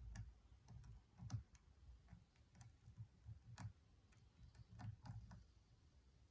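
Faint, irregular metallic clicks and light taps of lock picking tools working inside a Stanley padlock's cylinder, with a couple of sharper clicks along the way.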